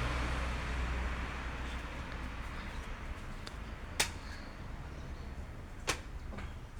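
Road noise from a passing vehicle fading away, then two sharp clicks about two seconds apart, with a few fainter ticks around them.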